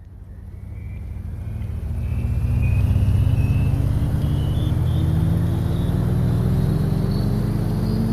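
A motor vehicle's engine running and gradually speeding up, with a thin whine that climbs in pitch along with it. The sound fades in over the first couple of seconds.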